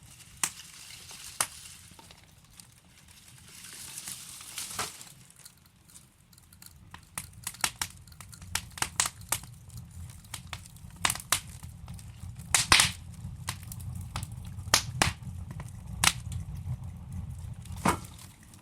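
Wood logs burning in a fireplace: sharp, irregular crackles and pops over a low rumble of the flames, the pops coming thicker in the second half.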